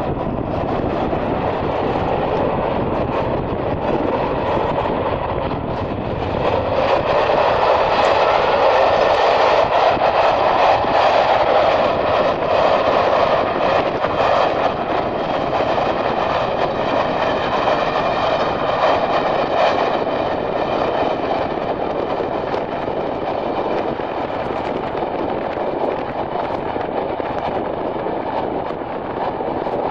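Diesel-hauled passenger train passing, two Class 31 locomotives leading with a Class 67 on the rear, its sound swelling about six seconds in and holding steady, with several steady tones over the running noise. Strong wind buffets the microphone throughout.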